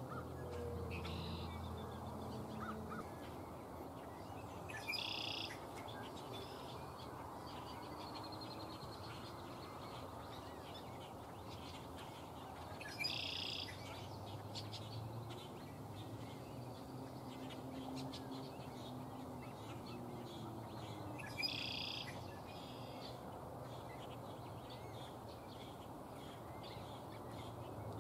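Birds calling: a short, loud call comes three times, about eight seconds apart, with fainter chirps between.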